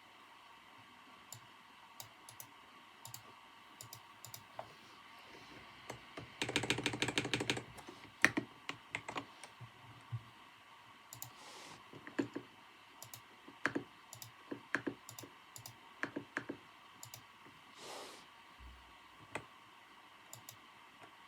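Computer keyboard typing: scattered, unhurried key clicks, with a quick run of keystrokes about six seconds in and one sharp, louder keypress just after it. A faint steady hum of room ambience lies underneath.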